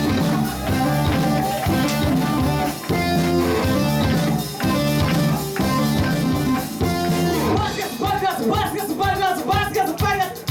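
Live rock band playing, with electric guitar and drum kit in a steady beat; voices sing along near the end.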